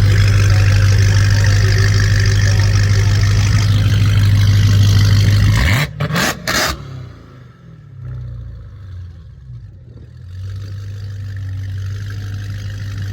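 Car engine revving: a loud, steady held rev for about six seconds, then a short rising rev that cuts off suddenly, followed by quieter engine running that builds again near the end.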